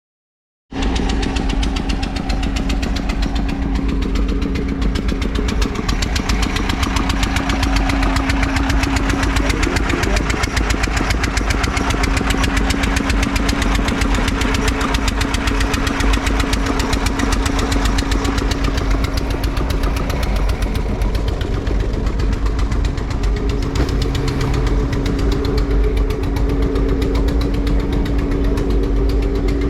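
A heavy engine of road-building machinery running steadily with a fast, even knock, starting about a second in.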